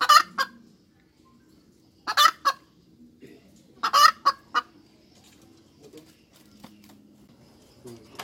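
Hen cackling: three loud bursts of sharp, clipped calls in quick groups during the first half, then a quieter stretch.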